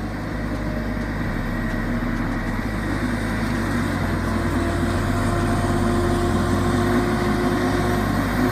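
Tracked feller buncher's diesel engine running steadily, getting gradually louder.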